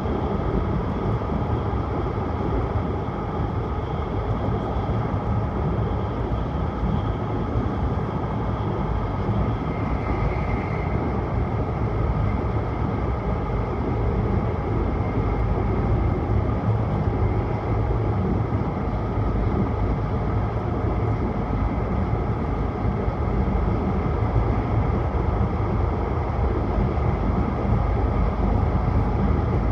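Tohoku Shinkansen Hayabusa train cruising at speed, heard inside the passenger cabin: a steady rumble of running noise with a faint high whine.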